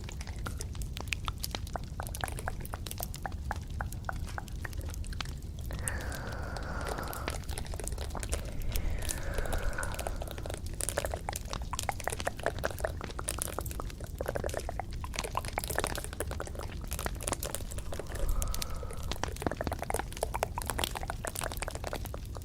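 Close-miked ASMR trigger sounds: dense crackling and clicking, with three short sliding tones that fall in pitch.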